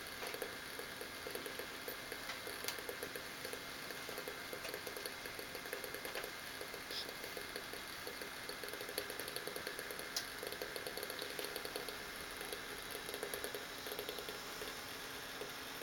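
Small DC extractor fan of a model ship's smoke generator running steadily at full speed, a faint fluttering whirr with light ticks.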